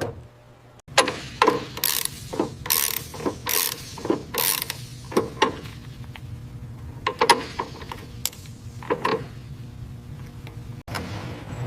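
Hand ratchet wrench clicking through several rasping strokes as fasteners are tightened, mixed with irregular metal clicks and knocks.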